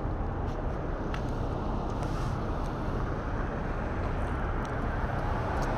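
Steady low rumble of motor vehicles and road traffic, an even noise with no distinct passes or events.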